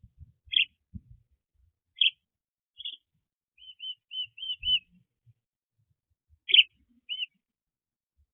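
Small birds chirping: short single chirps a second or so apart, with a quick run of five softer notes about halfway through and two louder chirps near the end.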